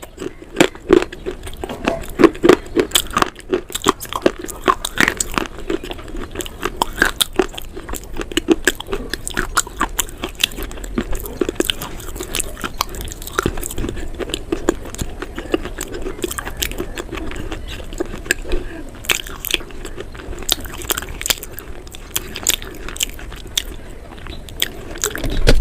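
A person chewing and biting crisp, crunchy food: a steady stream of irregular sharp crunches.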